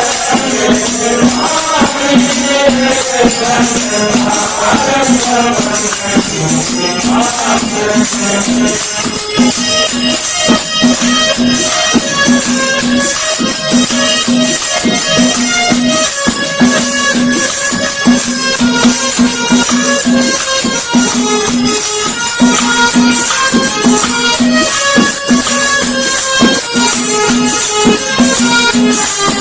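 Devotional bhajan music: a voice sings with gliding phrases for the first several seconds, then sustained instrument tones carry on over steady jingling, rattling hand percussion.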